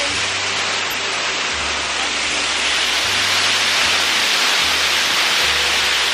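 A waterfall's falling water making a steady, even rushing noise.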